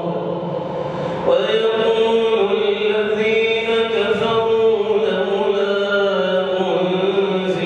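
A man chanting the Quran in melodic tajweed style: a softer moment at the start, then about a second in a long drawn-out phrase of held, gently wavering notes.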